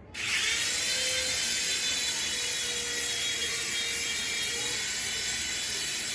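Toy RC helicopter's small electric motor and rotor whirring steadily in a high-pitched whine, starting suddenly.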